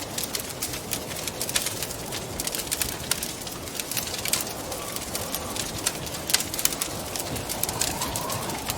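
Wood fire crackling in a fireplace, with frequent sharp pops and snaps over a steady background of wind. A faint hollow tone rises and falls near the end.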